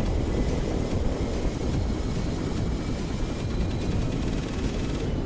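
Yamaha R3 motorcycle riding at speed: steady wind rush over the rider's microphone with the engine running underneath.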